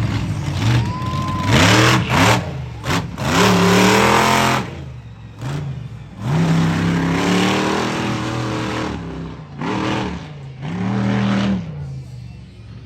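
A stunt vehicle's engine revving hard in about five bursts, its pitch rising and falling with each throttle blip, with short drops between them and easing off near the end.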